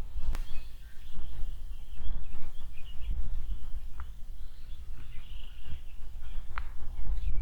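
Wind buffeting the microphone in an uneven low rumble, with small birds chirping faintly in the background and a few sharp ticks.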